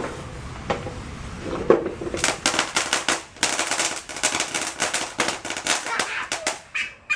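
Firecrackers going off: a few single pops, then a dense rapid string of crackling bangs for several seconds that stops near the end.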